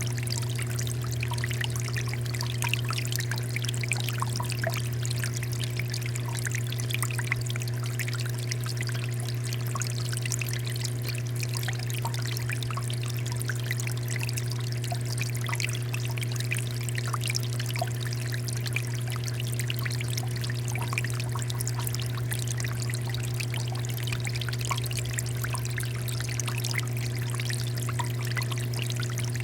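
Water fountain pouring and splashing steadily, with small droplet ticks over it and a steady low hum underneath.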